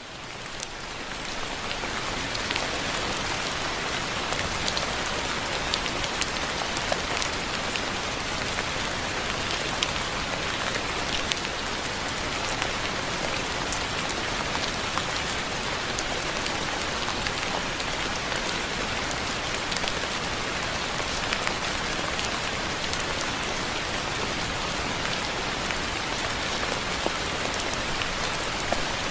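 Steady soft rain falling, an even hiss with scattered individual drop hits, fading in over the first couple of seconds and then holding steady.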